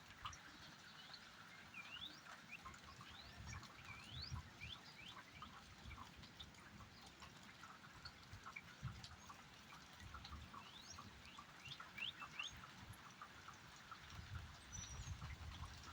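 Faint rain with scattered drips, under many short rising chirps from small animals, and soft low rumbles now and then.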